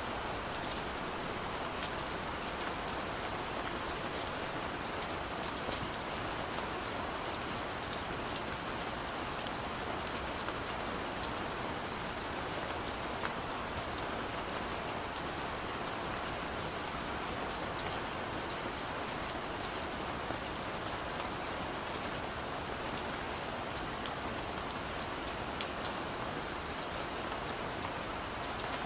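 Steady gentle rain falling, an even hiss with many small drop ticks scattered through it.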